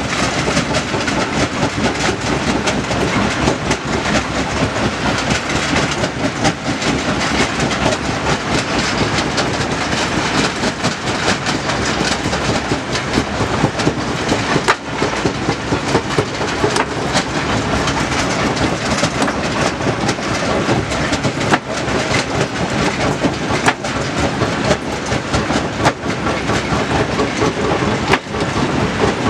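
Heavy stone-handling machinery running with a steady, noisy clatter of rock, with frequent sharp knocks of stone striking stone and metal.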